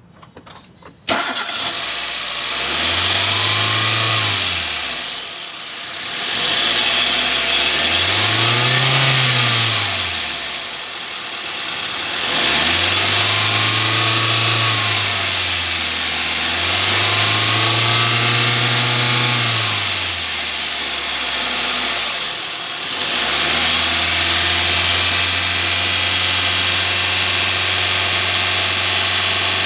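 Suzuki Swift petrol engine starting about a second in, then revved up and let fall back four times, each rev rising and dropping smoothly, before settling into a steady idle for the last several seconds.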